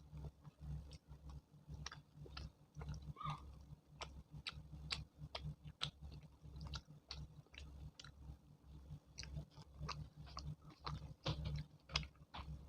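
Close-miked chewing of chole bhature: many short mouth clicks, several a second, over a steady low hum.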